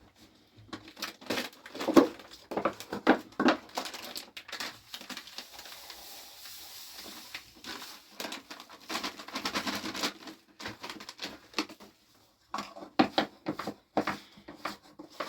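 Irregular crunching, rustling and knocking handling sounds, heaviest in the first few seconds and again around the middle.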